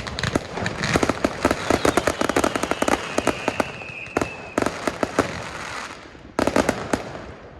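Fireworks going off in fast, crackling volleys of bangs, with a thin whistle falling in pitch through the middle. A fresh burst of bangs comes near the end, then the sound dies away.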